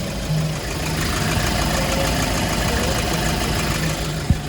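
Hyundai Porter II truck engine idling steadily, with a sharp click near the end.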